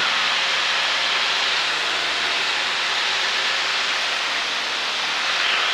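Cessna 152 in level cruise, heard from inside the cockpit: a steady airflow hiss over a faint, even drone from its four-cylinder Lycoming engine and propeller.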